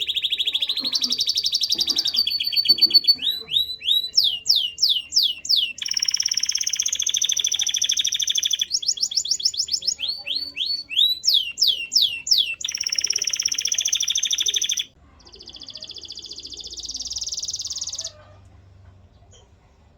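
Male canary singing: fast trills and runs of quick repeated sweeping notes that change every second or two, stopping abruptly about eighteen seconds in.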